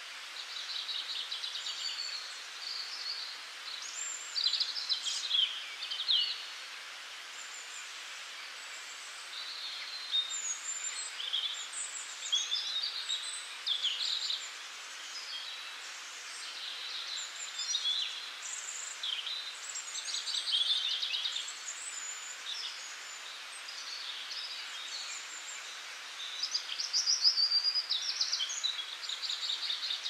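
Several songbirds chirping and singing, with short whistles and rapid trills overlapping over a steady background hiss; one trill near the end is the loudest.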